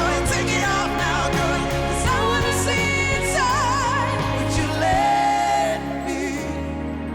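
Pop ballad performed live: a band with sung notes held and wavered in vibrato runs, no clear words. About five seconds in the bass and drums drop back and the music softens.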